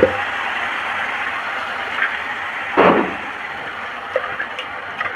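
Freshly ground wet masala paste sizzling and bubbling in hot oil in a kadhai, the sizzle slowly fading. There is one brief louder spurt about three seconds in.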